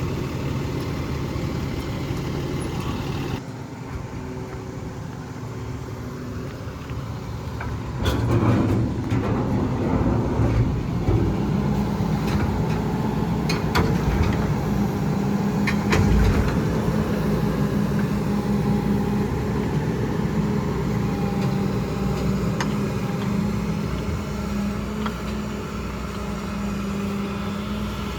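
Refuse truck's diesel engine running, with a run of knocks and clatter from about eight seconds in. From about eleven seconds in, the engine settles into a higher, steady note.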